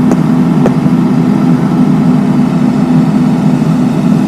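Heavy road-paving machinery engine running steadily with a deep, even hum. Two short clicks in the first second.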